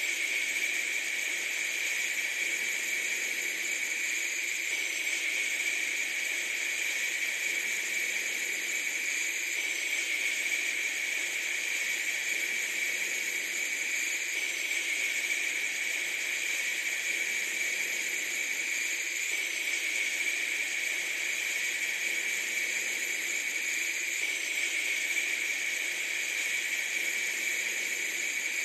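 A steady, unchanging hiss, strongest in its upper-middle range, with no breaks or rhythm.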